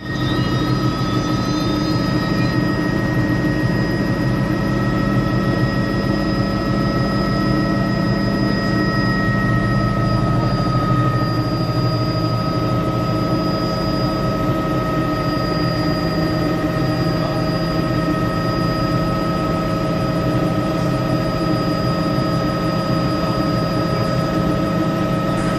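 A helicopter running steadily, its turbine giving a constant multi-toned whine over the rotor and engine noise.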